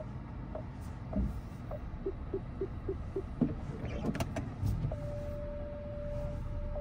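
Electronic warning chime from the parked 2024 Volkswagen Atlas: short repeating beeps that turn faster and lower about two seconds in, a few clicks around four seconds, then a steady single tone from about five seconds on.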